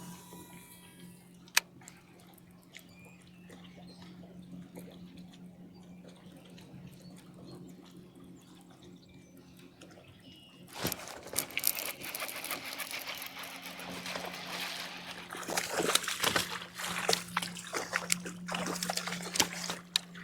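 Water splashing and sloshing beside a fishing kayak as a hooked bass is brought in and netted clumsily, starting about halfway through. A steady low hum underlies it, and a single sharp click sounds early on.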